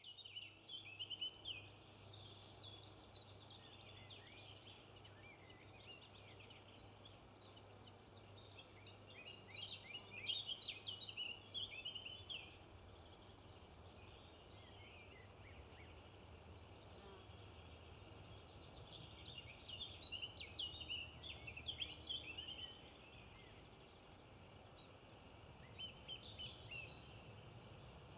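Birds chirping in busy bouts of quick, high chirps, with lulls between them and a faint low hum underneath.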